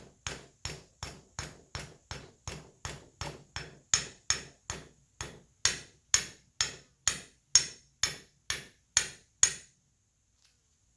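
A small hammer tapping lightly and steadily, about two to three taps a second, seating a tiny filter basket into the top of a Bosch-type fuel injector. The taps get harder about four seconds in, then stop shortly before the end.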